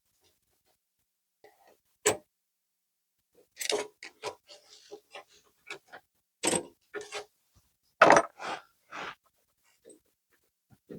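Clicks, knocks and rattles of hand tools and parts while the rocker arms and shaft of an air-cooled VW engine are taken off. The sharpest knocks come about two, six and a half and eight seconds in, with lighter rattling between.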